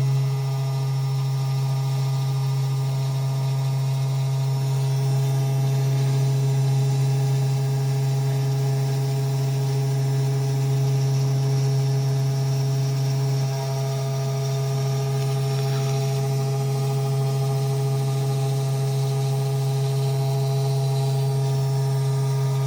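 Mini desktop CNC engraver running, its spindle motor and axis steppers giving a steady low hum with several steady whining tones above it. The level dips slightly about two-thirds of the way through.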